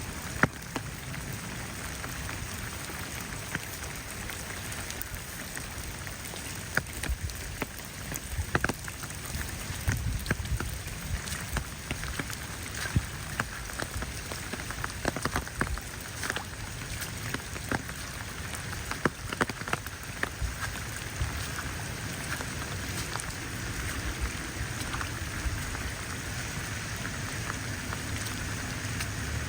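Steady rain falling, with many single sharp drop hits standing out, most of them in the middle stretch.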